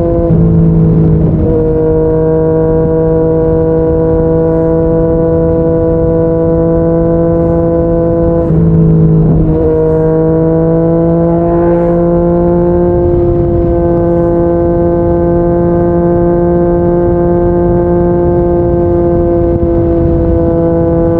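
Yamaha MT-09's inline three-cylinder engine through a Yoshimura R55 slip-on exhaust, running at a steady cruise. Its note dips briefly at the start and again about nine seconds in, then settles back to a steady pitch.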